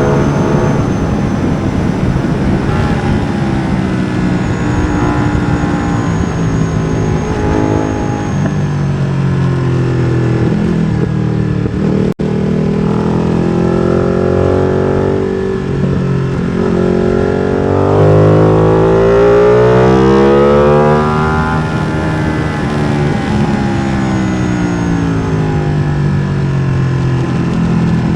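Ducati Streetfighter V2's 955 cc L-twin engine, through an MIVV exhaust with the dB killer removed, being ridden hard. The revs climb and drop repeatedly through gear changes and braking, loudest on a long pull about two-thirds of the way through, with a brief cut in the sound near the middle.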